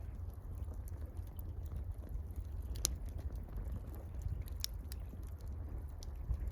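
Campfire crackling with scattered sharp pops, the loudest about three seconds in, over a steady low rumble.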